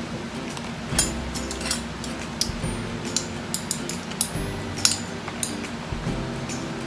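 Cutlery clinking and tapping against plates and food containers during eating: a string of sharp, irregular clicks, the loudest about a second in and near five seconds in.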